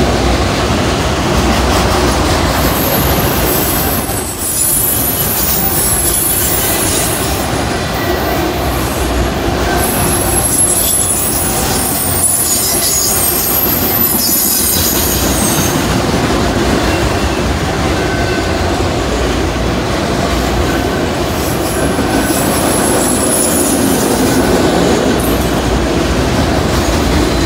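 Loaded autorack freight cars rolling past in a steady, loud rumble and rattle, with high-pitched wheel squeal coming and going.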